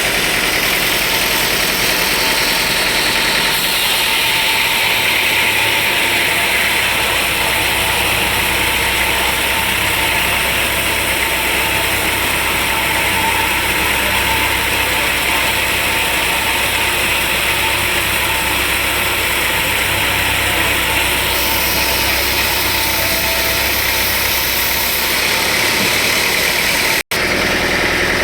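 Sawmill machinery running steadily, a loud, even mechanical noise with an engine-like drone; it breaks off for an instant near the end.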